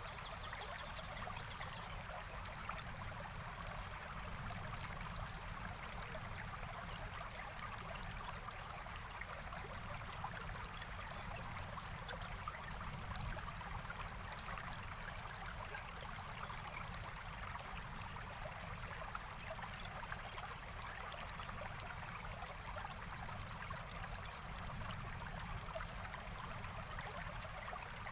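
A forest stream flowing steadily, with scattered faint small ticks over the water.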